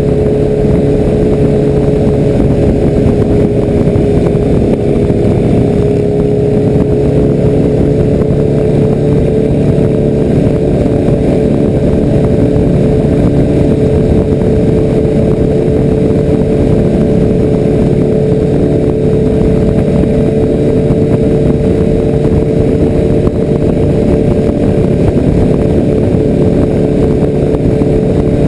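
Motorcycle engine running at a steady cruising speed with wind rush, a constant drone with no change in revs.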